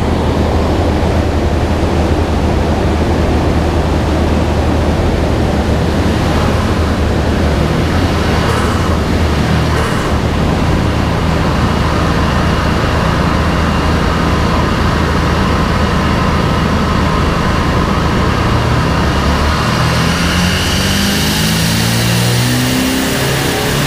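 Turbocharged 2.0-litre F4RT four-cylinder of a Renault Twingo GT running on a rolling-road dyno, holding a steady engine note under a loud rushing noise. About 20 seconds in, the note climbs in steps and a high whine rises with it as the revs build.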